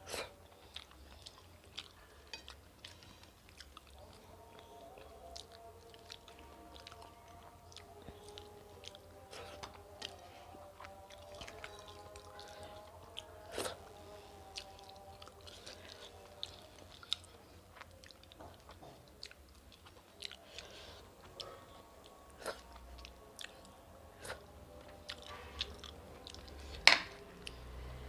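Close-up chewing of rice and chicken-potato curry, with many small wet mouth clicks spread through; one sharper click about halfway and a loud one near the end.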